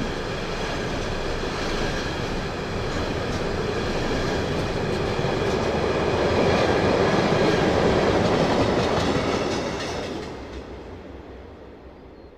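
A train running past on the rails, its wheel and rail noise swelling to a peak and then fading away over the last few seconds.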